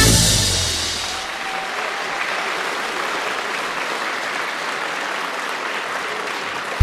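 Concert audience applauding steadily after a song ends. The band's last chord dies away during the first second.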